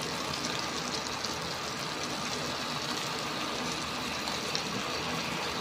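Beef stir-frying in oil and sauce in a stainless steel wok, with a steady sizzle.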